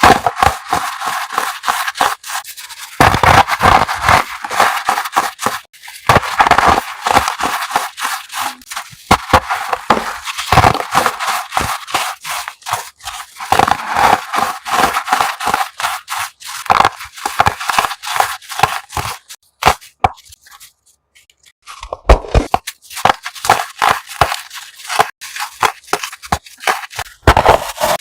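Crunchy chalk-like blocks being crushed, a dense run of crackling, crumbling crunches in a close-up ASMR recording. The crunching pauses briefly near the end and then starts again.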